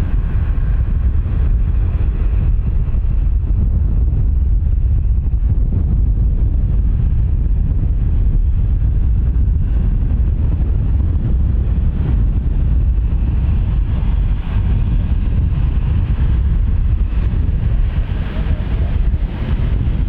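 Boeing 777-300ER on final approach, its GE90 engines giving a deep, steady rumble with wind buffeting the microphone. A higher whine grows louder over the last several seconds as the jet comes closer.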